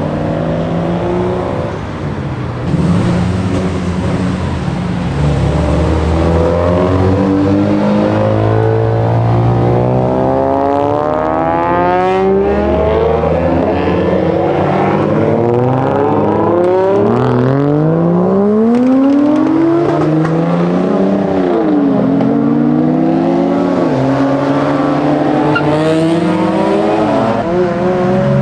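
Several modified cars' engines running together, one after another revving up and accelerating away, their exhaust pitch climbing steeply several times in the second half.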